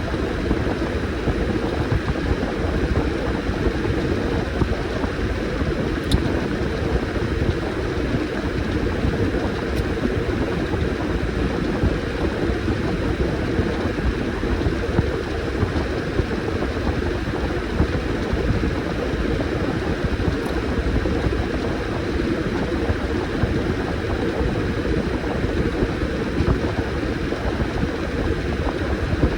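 Washing machine running with a load of towels: a steady noise, heaviest in the low range, with a few faint clicks.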